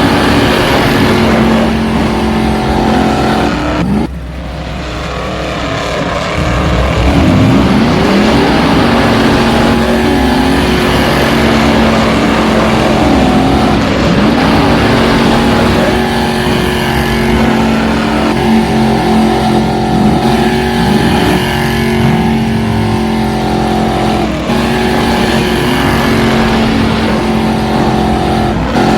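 Vehicle engine running and revving, its pitch rising and falling; it drops briefly about four seconds in, then builds back up.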